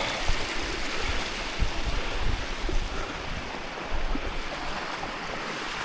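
Shallow hillside stream running over rocks, a steady rush of water, with irregular low rumbles on the microphone.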